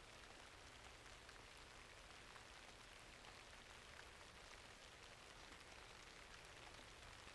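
Faint steady rainfall, an even hiss with scattered small ticks.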